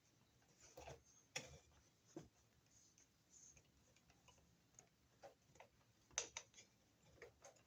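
Faint, irregular clicks and light taps from handling stripped solid copper electrical wires, lining up their ends before a wire nut goes on. The two loudest clicks come about a second and a half in and about six seconds in.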